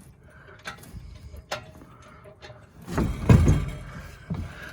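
Engine being hoisted out of a car's engine bay: scattered light metallic clicks, then a louder creaking, rumbling clunk about three seconds in as the engine shifts on the lift.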